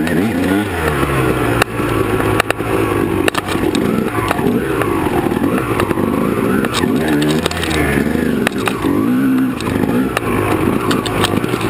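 Honda CR250R two-stroke dirt bike engine revving up and down as the bike is ridden over rough ground, with scattered sharp knocks.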